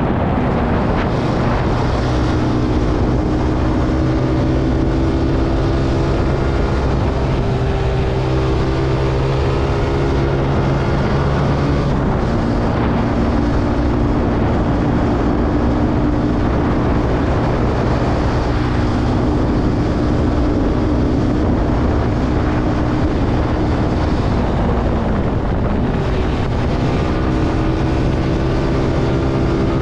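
Zontes C125 motorcycle's 125cc single-cylinder four-stroke engine running under way, heard from on board, its note holding steady and then shifting pitch a few times, stepping down about twelve seconds in and changing again near the end. Wind rushes over the microphone throughout.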